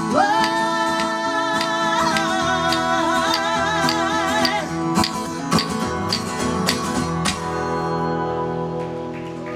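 Live band ending a song: the singer holds the final sung note with vibrato for about four and a half seconds over acoustic guitar. A few sharp hits follow, then the last chord rings out and fades.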